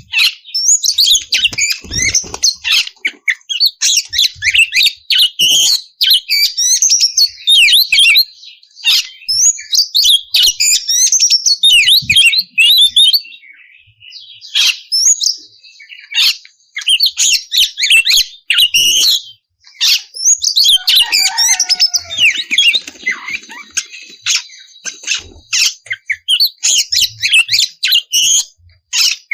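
Oriental magpie-robin (kacer) singing loudly: a fast, varied run of chirps, trills and rasping notes in bursts, broken by brief pauses, with a few held whistles partway through.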